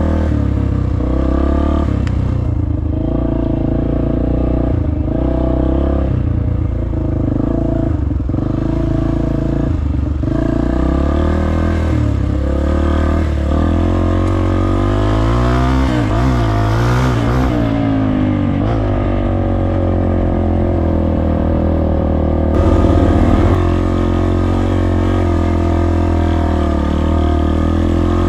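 Dirt bike engine running under changing throttle as the bike is ridden, its pitch climbing and dropping again and again, with a quick rev up and back down around the middle.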